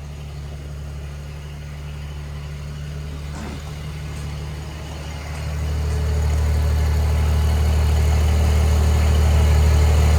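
Choke-started gasoline tractor engine running just after a cold start. It runs steadily and gets louder about five and a half seconds in, as it picks up. It is still cold and, in the owner's word, unhappy, needing the choke set just right.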